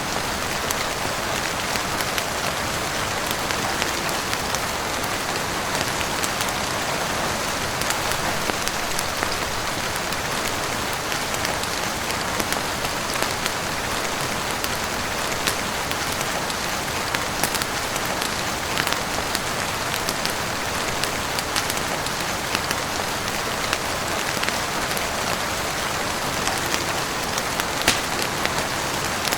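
Heavy rain falling steadily on a roof and windows: a dense even hiss scattered with many small sharp ticks.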